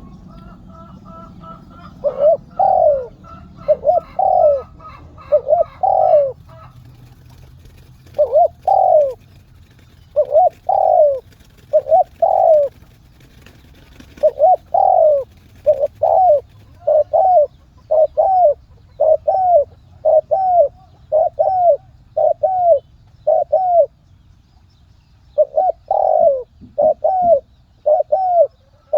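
A dove cooing over and over: short arched coos in runs, about one a second for much of the time, with brief pauses.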